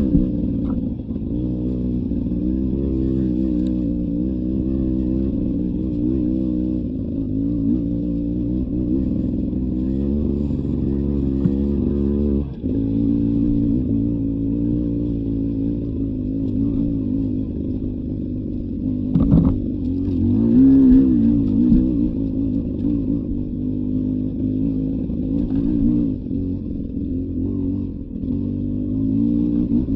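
Beta 300 RR two-stroke enduro motorcycle engine running on a trail ride, its pitch rising and falling continually with the throttle. A sharp knock comes a little past the middle.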